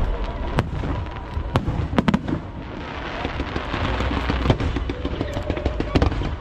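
Aerial fireworks shells bursting in a run of sharp bangs, several in quick pairs, with a dense crackling spell in the middle.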